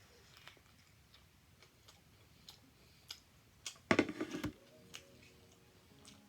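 Close-up mouth sounds of eating fast food: scattered soft clicks of chewing, with a louder, denser burst of crunching and mouth noise about four seconds in.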